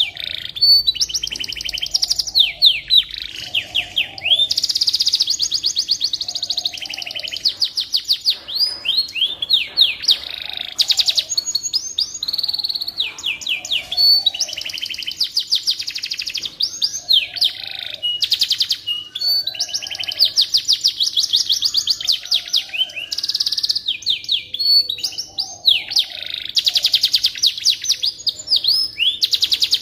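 Domestic canary singing a long, continuous song of fast trills, rolls and sweeping whistled notes, with brief pauses between phrases.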